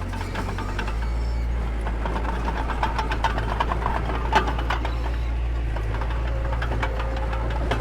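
Mini bulldozer's diesel engine running steadily with a deep rumble, with metallic clanks and rattles from the machine at work; one sharper clank about four and a half seconds in.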